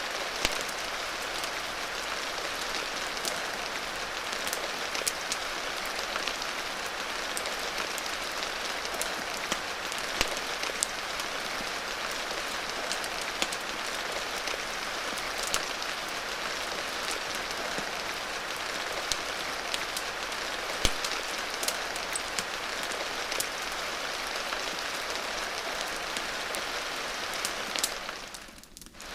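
Steady rain hiss with scattered sharp pops and crackles from a wood fire. The sound fades briefly near the end and comes back.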